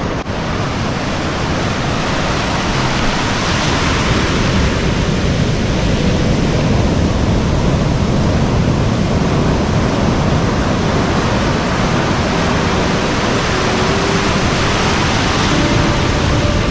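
Loud, steady rush of ocean surf breaking on a reef, mixed with wind.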